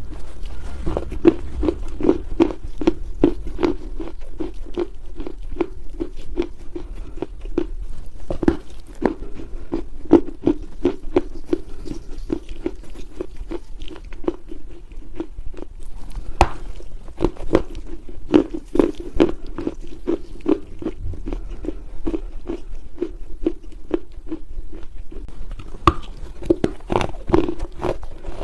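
Dried Chinese loess soil being crushed in soft crunches: a dense, continuous run of small crackles and crumbles, with a few sharper cracks standing out.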